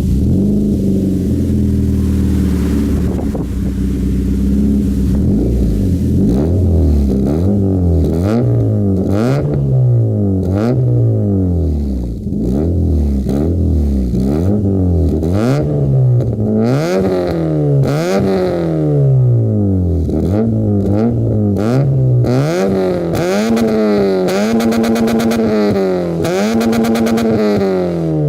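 Daewoo Nexia's Opel C20XE 2.0 16-valve four-cylinder engine, breathing through a Lexmaul exhaust manifold and two straight-through silencers, idling steadily, then blipped up and down over and over from about six seconds in, the revs coming quicker near the end.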